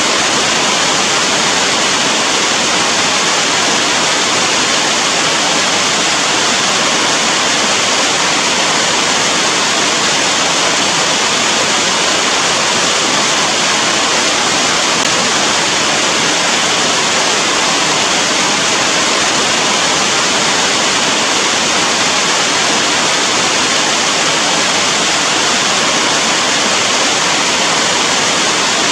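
Heavy rain falling steadily, an even, unbroken hiss with no single drops or thunder standing out.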